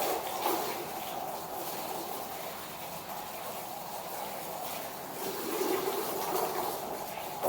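Streams of buffalo milk squirting by hand into a milk pail, a steady liquid hiss.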